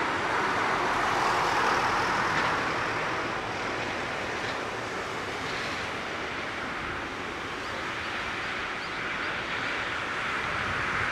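Jet engine noise from a Boeing 777-300ER's GE90 engines, a steady rushing roar that eases slightly after the first few seconds.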